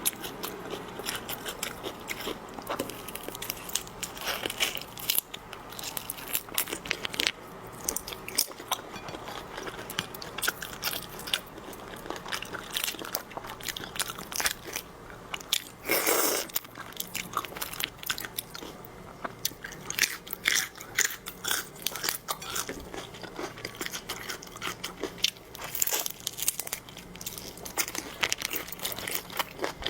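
Close-miked crunching bites and chewing of seafood, a dense run of irregular crackles and clicks, with one louder crunch about halfway through.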